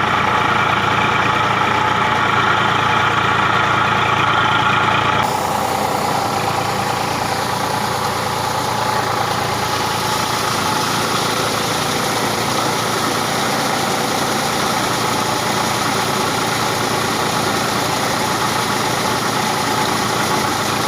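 Eicher tractor's diesel engine running steadily. The sound changes abruptly about five seconds in and then runs on evenly.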